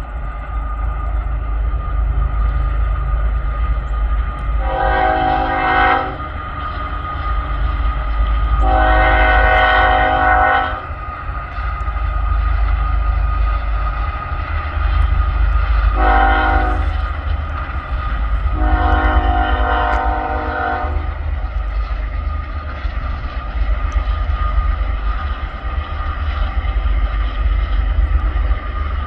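BNSF diesel locomotive air horn sounding four blasts, long, long, short, long: the grade-crossing signal, over the steady low rumble of the passing double-stack freight train.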